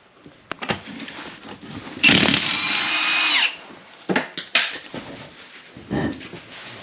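A power tool runs in one burst of about a second and a half, its whine dropping as it winds down, followed by a few short metallic clunks.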